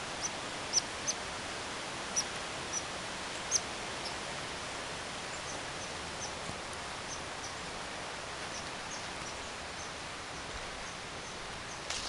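Small bird giving short, high chip calls, several sharper ones in the first few seconds and then fainter ones scattered throughout, over a steady hiss.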